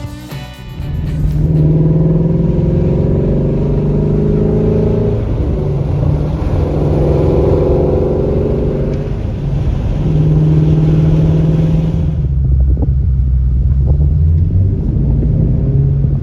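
Shelby GT350's V8 engine running under load at steady revs, in stretches of a few seconds separated by brief dips.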